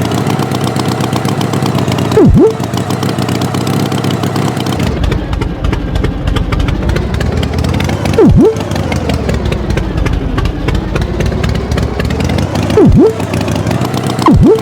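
Tractor engine running steadily, its pitch slowly rising and falling. Four short, loud swooping sounds break in, each falling then rising in pitch.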